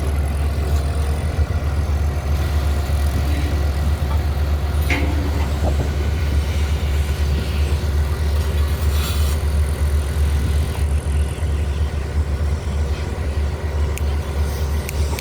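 A steady low engine drone with a few faint clicks over it.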